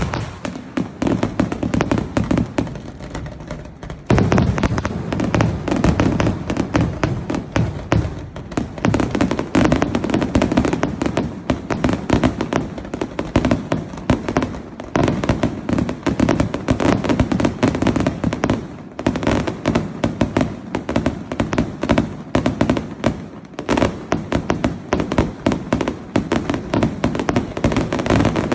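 Fireworks display: a dense, continuous barrage of rapid bangs and crackles, with a few brief lulls.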